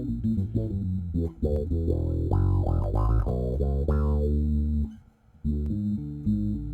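Electric bass with roundwound strings played through a Mutron/Qtron-style envelope filter pedal, each plucked note's tone sweeping with a wah. A quick run of notes, a short break about five seconds in, then more notes.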